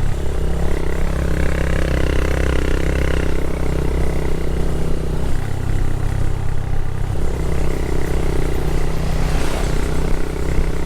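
Motorcycle engine running steadily, with a continuous low hum.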